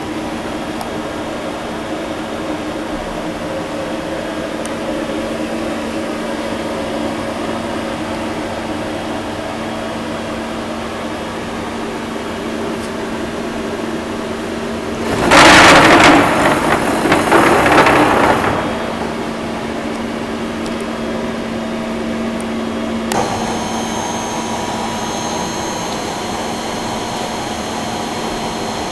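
Steady hum of industrial machinery around a CNC lathe. Midway a loud rushing, hiss-like noise lasts about three seconds, and about two-thirds through a set of high steady whines switches on and keeps going.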